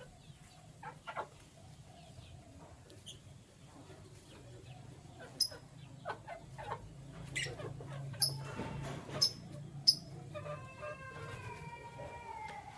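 Cage birds calling: short, sharp high chirps scattered through, and a longer pitched call, falling slightly, near the end, over a low steady hum.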